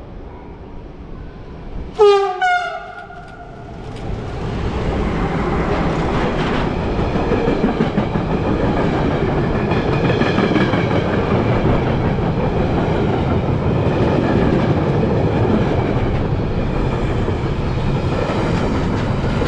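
A train horn sounds one short blast about two seconds in, dipping slightly in pitch. Then a train passes close by, its wheels on the rails making a steady loud rush of noise.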